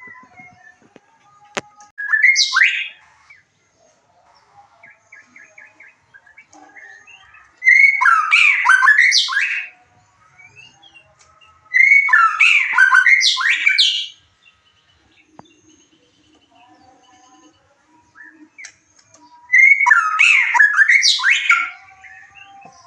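White-rumped shama (murai batu) singing: four loud bursts of rich, varied song a few seconds apart, with faint twittering between them. It is a bait song played to provoke a caged shama into singing back.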